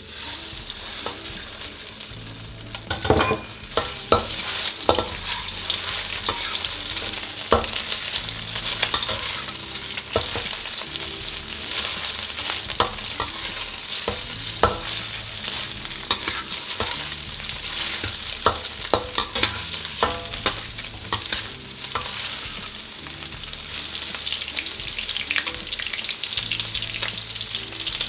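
Chicken sizzling in hot oil in a wok, the sizzle starting at once as the pieces go in, with a metal wok ladle scraping and clinking against the pan as the chicken is stir-fried.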